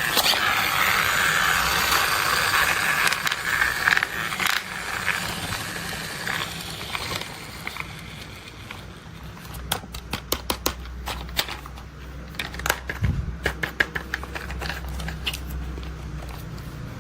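Toy construction vehicles being handled: a scraping rattle for the first several seconds, then a run of sharp clicks and ticks in quick clusters.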